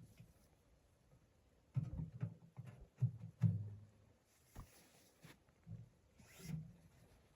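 Irregular soft knocks and clicks, clustered in the first half, with two brief rustles or scrapes after the middle.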